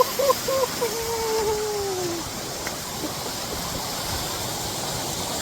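A man's drawn-out wavering cry that falls away over the first two seconds, then the steady rush of a mountain waterfall.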